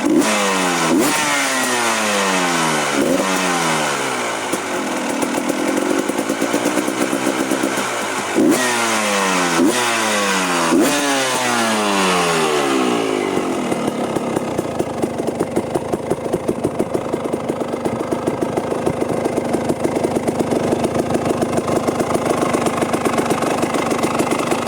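Motorcycle engine breathing through a full-system aftermarket racing exhaust, revved in a series of sharp throttle blips, each falling back in pitch. About halfway through it settles into a steady, pulsing idle.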